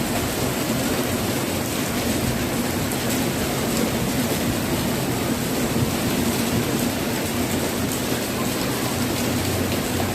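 Heavy monsoon rain pouring steadily, a dense hiss at an even level with faint scattered drop ticks.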